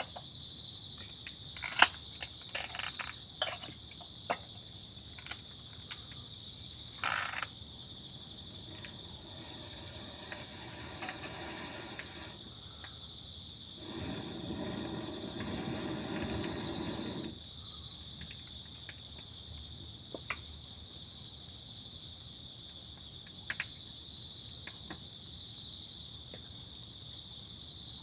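Insects chirping steadily in a fast, even pulsing trill, with scattered light clicks and knocks. About halfway through, a rushing noise lasts about three seconds.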